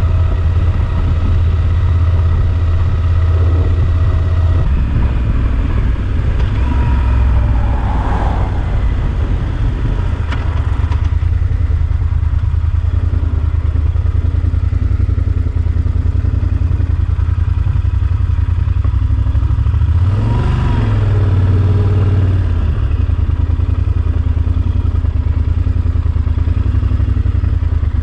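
Yamaha Super Ténéré XT1200Z's parallel-twin engine running steadily while riding. About twenty seconds in, the engine note drops briefly and climbs again.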